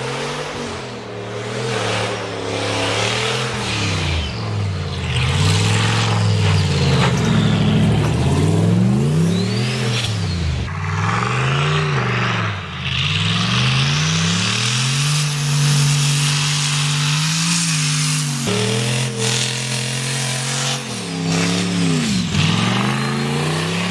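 Turbocharged LS V8 in a 2002 BMW running hard, its revs repeatedly climbing and dropping as the car accelerates and backs off.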